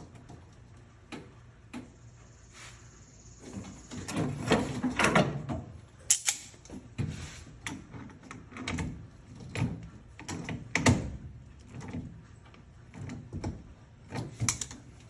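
Irregular knocks, clunks and rattles of hand work on a car, with tools and metal parts being handled. The clatter is busiest in the middle and again near the end, and no engine is running.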